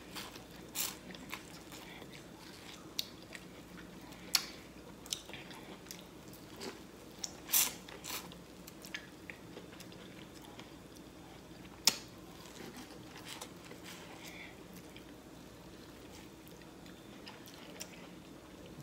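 Biting and chewing corn on the cob: scattered wet crunches and mouth clicks, fewer in the last few seconds.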